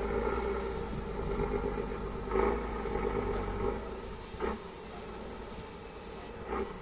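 Tatra 813 off-road truck's diesel engine running steadily at low revs, with a few brief louder moments.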